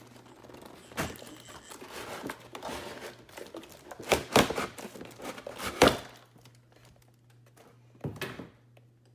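Cardboard toy box with its packaging being handled: rustling and crinkling, with several thunks, the two loudest about four and six seconds in.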